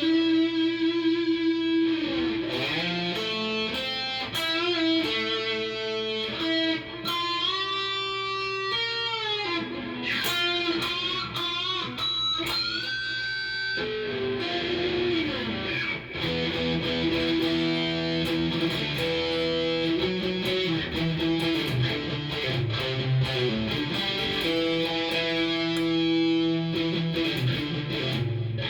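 Cort S-series electric guitar played through a Fender amp: a single-note lead line with bent notes that slide up in pitch and long held notes, moving into fuller, busier playing after about halfway.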